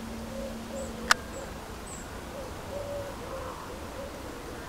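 Birds calling: a run of short, low hooting notes repeating every half second or so, some held a little longer, with a few faint high chirps. A single sharp click about a second in is the loudest sound.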